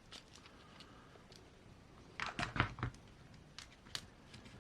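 Light clicks and taps of small RC crawler parts being handled on a workbench, with a short cluster of knocks a little past two seconds in and a couple of single clicks after it.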